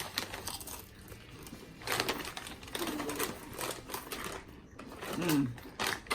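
People biting and crunching crisp ghost pepper chips: a rapid run of brittle cracks.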